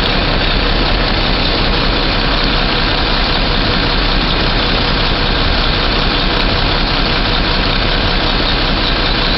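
Engine of the boom truck idling steadily with a constant low hum.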